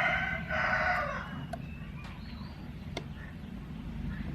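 A rooster crowing, the call breaking off about a second in, over a steady low hum; a few faint clicks follow.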